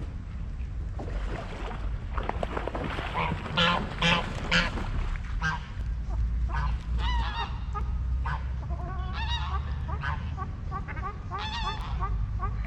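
A group of waterfowl calling repeatedly at a lakeside, with a loud cluster of calls a few seconds in and a run of quicker, shorter calls after, over a steady low rumble.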